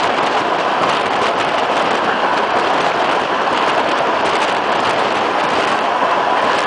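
Steady loud rushing of a moving passenger train heard from an open window: wheels running on the rails mixed with air rushing past the carriage, with no clear beat.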